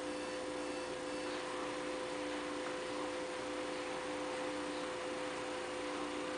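Steady hum of a few low, unchanging tones over a faint hiss: indoor room tone.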